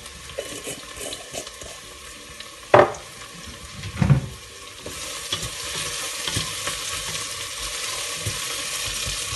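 Chopped onions frying in oil in a stainless steel pot, sizzling as they brown. There are two sharp knocks about three and four seconds in. From about halfway the sizzle grows steadier and louder, with a wooden spoon stirring through the onions.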